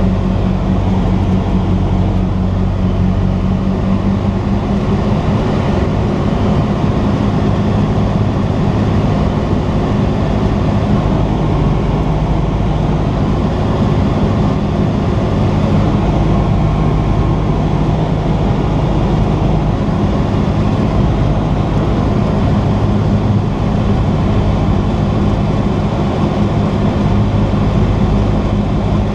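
Cessna 172's piston engine and propeller running steadily, heard from inside the cabin as a constant loud drone.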